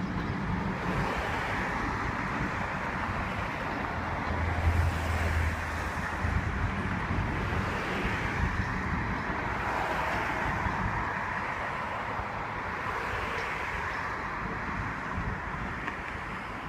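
Train running, a steady rumbling noise; a low hum swells briefly about five seconds in.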